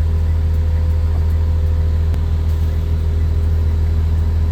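Caterpillar C7 inline-six diesel engine of a Blue Bird Vision school bus running steadily, a deep even hum with a few faint steady tones above it, heard from inside the bus.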